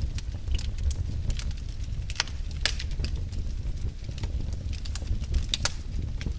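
Wood fire in a fireplace crackling, with irregular sharp pops and snaps over a steady low rumble of burning. The strongest snaps come about two seconds in, just before three seconds, and near five and a half seconds.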